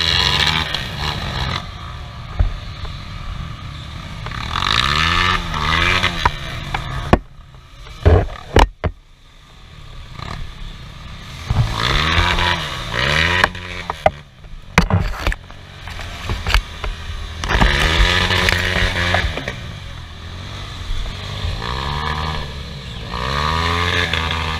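Off-road motorcycle engine revved up and down again and again, easing off for a few seconds around a third of the way in, where a few sharp knocks are heard.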